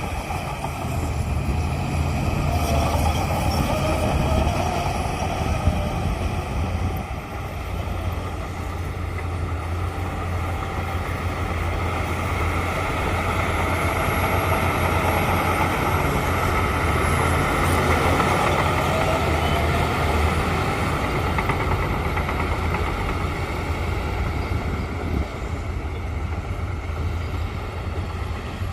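Shantui crawler bulldozer's diesel engine running steadily under load, its level swelling and easing slightly over time.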